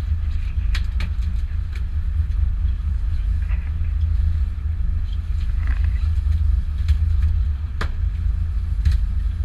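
Charter boat's engine running with a steady low rumble, with a few sharp knocks now and then.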